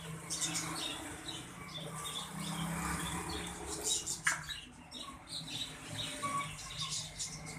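Many small caged birds chirping at once in short high calls, with occasional wing flutters and clicks, over a low steady hum.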